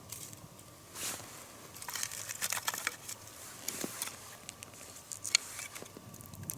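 Dry wood chips and kindling being handled and stacked for a campfire: irregular rustling with scattered small clicks and snaps.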